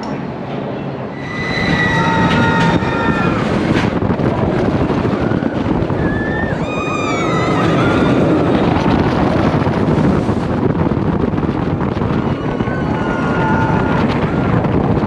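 Roller coaster train running with a loud rushing noise and wind on the microphone, with high, wavering riders' screams about two seconds in, again around seven seconds, and near the end.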